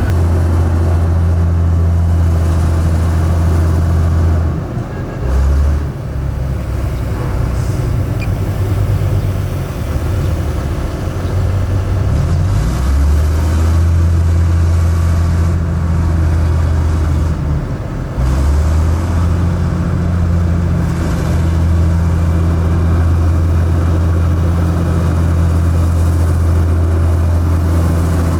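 Heavy diesel engine of earthmoving or haulage machinery running steadily under load. It dips briefly and changes pitch a few times, around 5, 12 and 18 seconds in.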